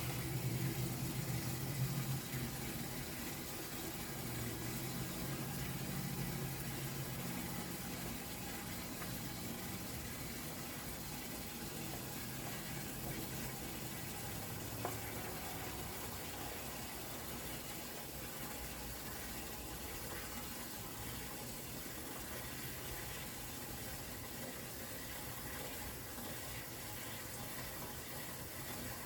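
Water running steadily into a bucket, filling it up.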